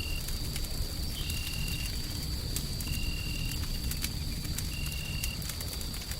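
Wood fire crackling in scattered sharp clicks over a steady low rumble of white noise. A short high tone repeats about every second and a half, with a faint steady high whine beneath it.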